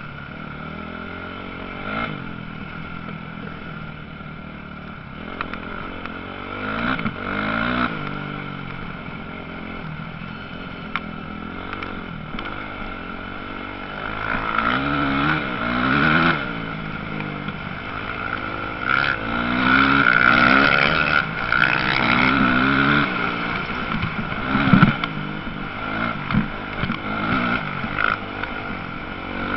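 Motocross bikes racing, engines revving up and down repeatedly as they pass, louder in the middle and latter part.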